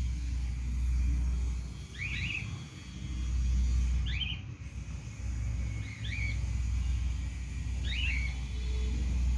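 A 48-hour-old cockatiel chick's begging cheeps while being hand-fed: four short, high calls about two seconds apart, over a steady low rumble.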